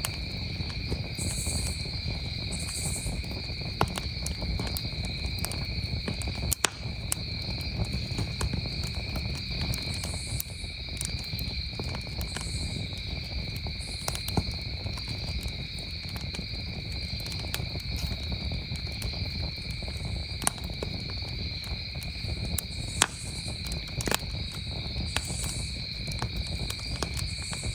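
Campfire crackling, with sharp pops at irregular intervals, over a steady, continuous chorus of crickets.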